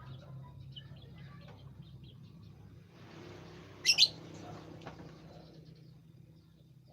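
Birds chirping: scattered faint chirps, then one loud, sharp two-note call about four seconds in. A low steady hum runs underneath.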